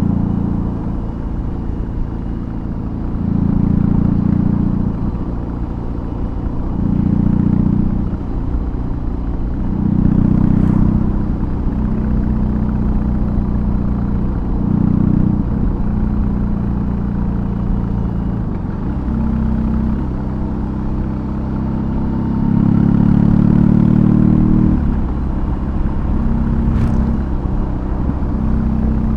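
BMW R18's 1802 cc boxer twin running through a custom exhaust while riding, its note swelling louder every few seconds and settling back, with the pitch shifting down once about two-thirds of the way through.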